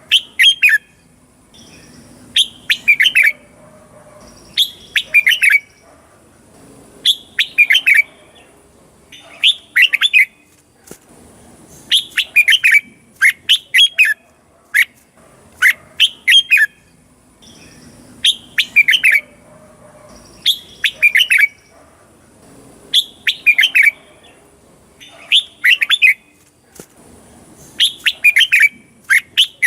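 Red-whiskered bulbul singing: short, loud, warbling phrases, one about every two seconds, each a quick run of rising and falling notes.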